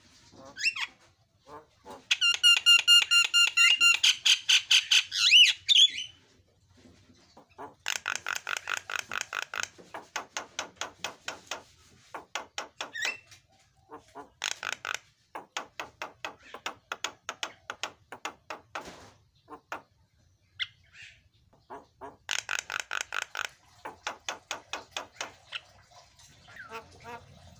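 Javan myna (jalak kebo) calling: a loud, harsh call with a rich, buzzy tone from about two seconds in, lasting some four seconds, followed by several bouts of rapid, repeated harsh chattering notes.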